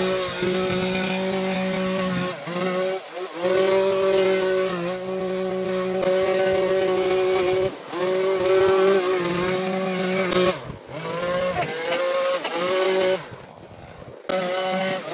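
Small gas engine of lawn equipment running hard and steady, its pitch dipping briefly several times as the throttle eases or the load changes, then picking back up.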